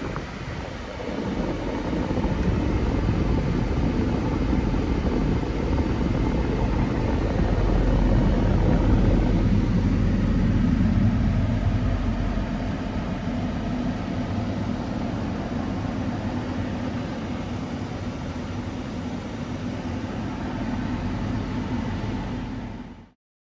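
Box truck's 6.6L Duramax turbo-diesel running with a steady rumble, swelling louder about a third of the way in and then easing back, before cutting off abruptly.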